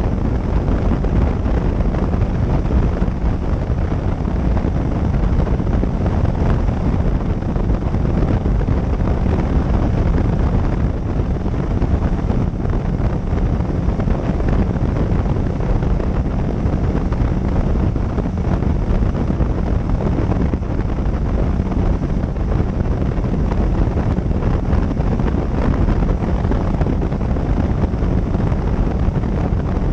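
Wind rushing over the microphone of a riding motorcycle's dashcam, with the motorcycle's engine and road noise underneath, steady throughout.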